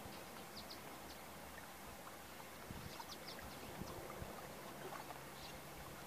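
Small birds calling with short, high chirps in quick little clusters, over a faint low background of wind and water.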